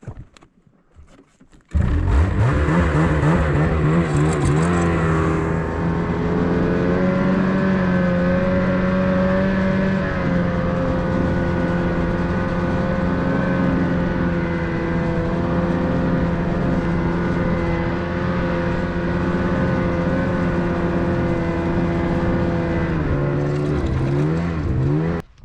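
Gasoline engine running at high revs. It starts abruptly, climbs in pitch over a couple of seconds and holds steady, then drops and cuts off suddenly near the end.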